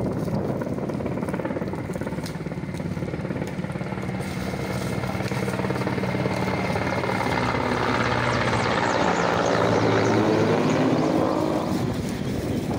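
Helicopter flying past. Its rotor sound grows louder to a peak about three-quarters of the way through, its pitch sweeping as it goes by, then fades near the end.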